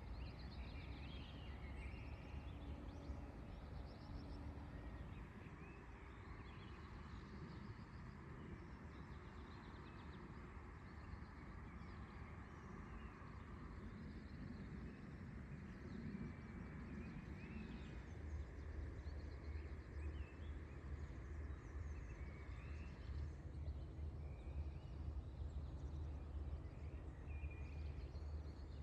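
Rural outdoor ambience: scattered small-bird chirps and calls over a steady low rumble, which grows a little stronger past the middle.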